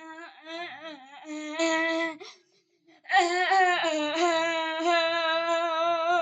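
A person humming a slow wordless melody alone, holding long wavering notes with a short break about two and a half seconds in.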